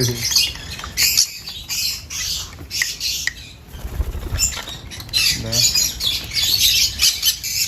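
Hand-reared parrot chicks begging for food: a run of short, hissy, raspy calls, one after another, as they jump towards the feeder.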